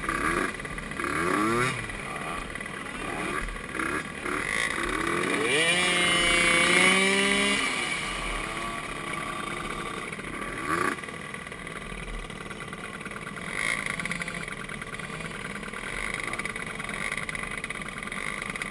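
Small youth ATV engines running and revving, their pitch rising and falling, loudest about six to seven seconds in.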